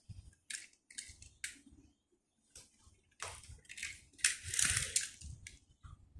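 Irregular rustling and crinkling of handled plastic in short bursts, with soft low knocks between them.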